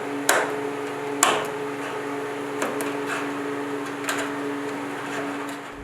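Cardboard template being handled and folded against the car body: a handful of sharp taps and crinkles, about five in all, over a steady low hum.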